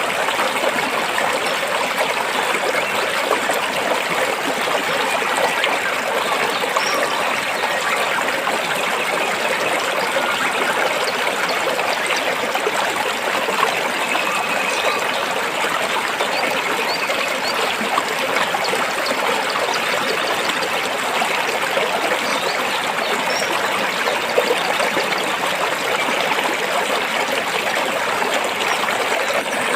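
Stream water flowing and trickling over rocks, a steady even rush.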